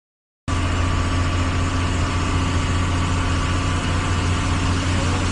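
A vehicle engine running steadily at idle with a strong low hum, cutting in abruptly about half a second in after silence.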